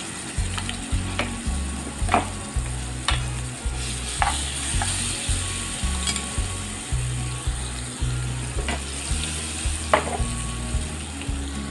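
Wet tamarind paste frying in hot oil with a cumin, garlic and curry-leaf tempering: a steady sizzle with a few sharp pops. The paste is newly added and still raw, frying off its raw smell.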